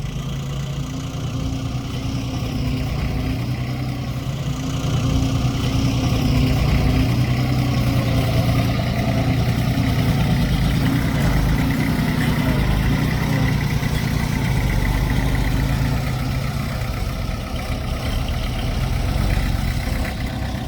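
Diesel engine of heavy earthmoving equipment running steadily. It grows louder about five seconds in and eases back a little near the end.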